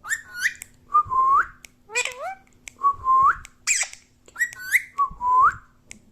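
Pet parrot whistling a short phrase about three times: each time a few quick rising chirps, then a longer whistled note that sweeps upward at the end.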